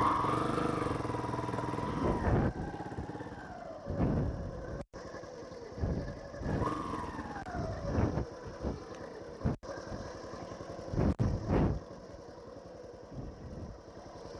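Motorcycle engine running while riding, its pitch falling off several times as the throttle is eased, broken by a few abrupt short dropouts in the sound.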